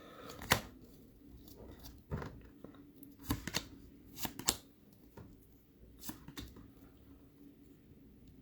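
A trading card pack being opened by hand: scattered short crinkles, rips and clicks of the wrapper and the cards being handled.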